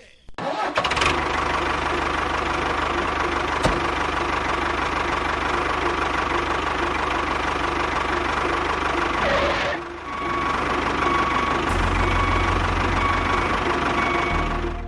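A small motor of a DIY mini tractor running steadily, with a short dip about ten seconds in before it carries on.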